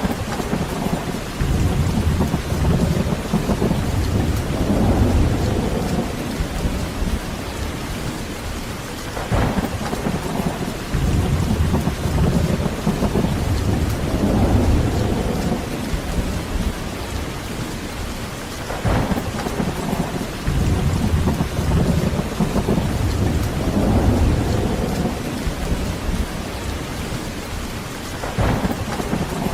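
Heavy rain falling steadily while thunder rumbles low and deep. A sharp crack comes roughly every nine to ten seconds, four times in all, and each rolls into a long rumble that swells and fades.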